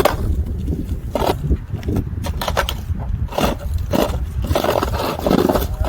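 Scattered scraping crunches on icy snow, about one a second, over a steady low rumble of wind on the microphone.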